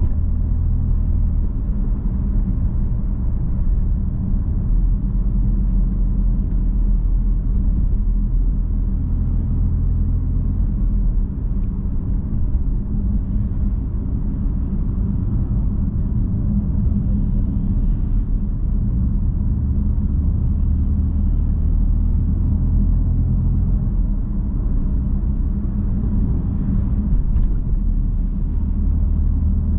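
BMW M3 F80's 3.0-litre twin-turbo inline-six running steadily while the car cruises: a deep, even rumble with only small changes in engine speed and no hard revving.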